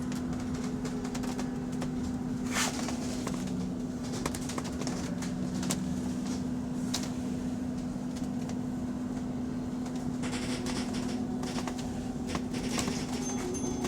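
Electric bus coasting with a steady humming tone from its drivetrain, heard from inside the cabin over the general ride rumble. The noise comes only while the bus is moving with the driver off the accelerator, and its cause is unknown.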